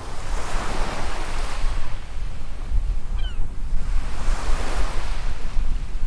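Small waves washing up on a sandy beach, two washes swelling and falling away about four seconds apart, with a low wind rumble on the microphone. A brief faint chirp comes about three seconds in.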